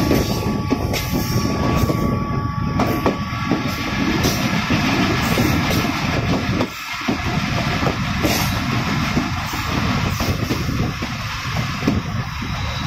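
Moving passenger train's wheels running on the rails, a steady loud rumble and clatter heard from alongside the coach, with a thin steady high tone over it for the first four seconds. The rumble drops away briefly about seven seconds in.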